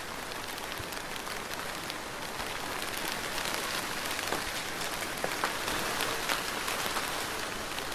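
Steady soft rain falling, an even hiss with many individual drops ticking on a surface, getting a little heavier and louder about three seconds in.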